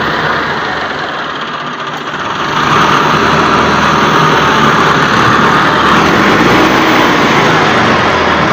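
A motor vehicle's engine running steadily, growing louder about two and a half seconds in.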